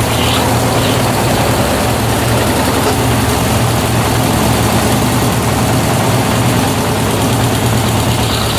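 Brastemp BWT12 12 kg top-loading washing machine running with a steady low hum in the drain and spin stage near the end of its cycle.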